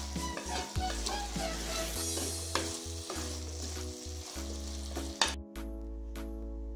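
Drumstick curry in a thick coconut-paste gravy sizzling in a pot as a wooden spatula stirs and scrapes through it, over background music. A sharp knock comes about five seconds in, then the cooking sounds stop and only music with a steady beat is left.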